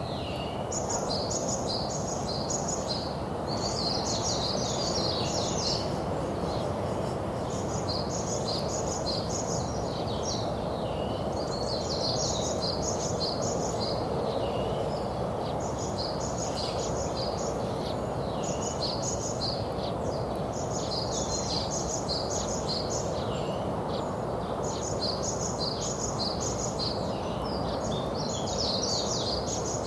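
Songbirds singing repeated short phrases of quick, high chirps, one phrase every two to three seconds, over a steady low background noise.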